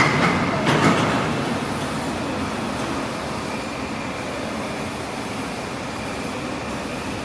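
Steady mechanical running noise, with two sharp clanks less than a second apart at the start.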